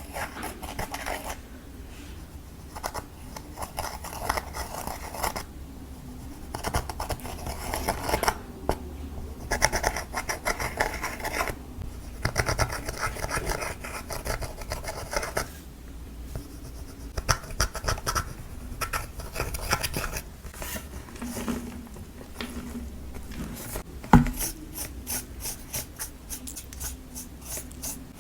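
Clear slime with lipstick mixed in, squished and stretched by hand close to the microphone. It gives dense runs of small sticky clicks and crackles in bursts, with short pauses between, and one sharp, louder pop near the end.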